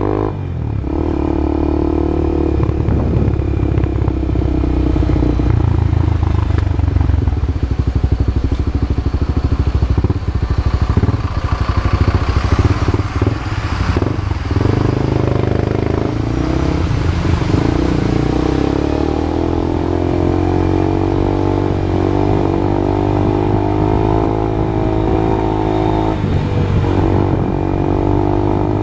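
Honda CB Twister's single-cylinder engine running loud through a new exhaust, its pitch rising and falling as engine speed changes.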